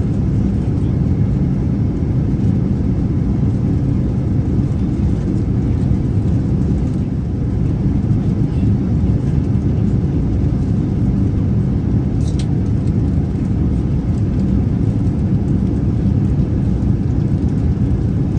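Steady low rumble of a Boeing 787-9 airliner cabin at cruise: engine and airflow noise. A brief faint click about twelve seconds in.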